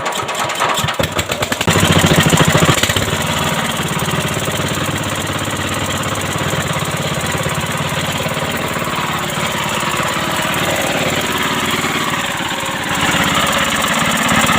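Freshly repaired 170F single-cylinder air-cooled diesel engine running. It is uneven for the first couple of seconds, then settles into a steady run and gets louder about thirteen seconds in.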